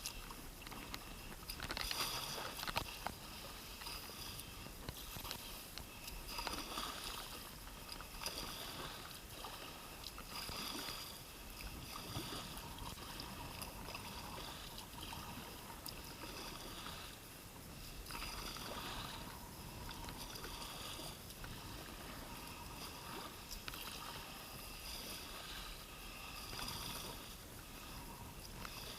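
Kayak paddle strokes dipping into and dripping from creek water, a stroke every two seconds or so, over a steady watery wash.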